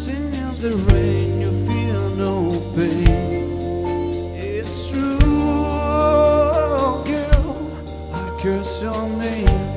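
A slow R&B-style pop song with a sung vocal gliding through wordless runs over sustained chords, and a deep kick drum about every two seconds.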